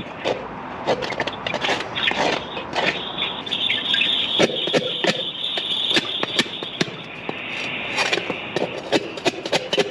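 High-pressure drain jetter working in a pipe: a steady high hiss from the water jet, with many sharp knocks and rattles from the hose.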